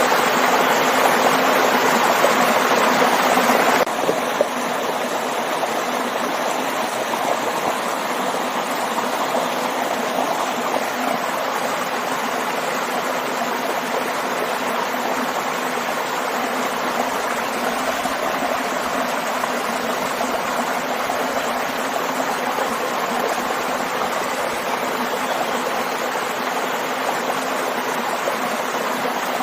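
A waterfall and stream rushing steadily. About four seconds in the sound turns a little quieter and less hissy, then runs on evenly.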